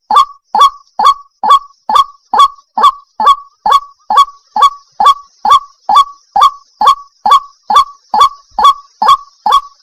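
Waterhen calling in a fast, monotonous series, about two harsh calls a second. Each call drops in pitch.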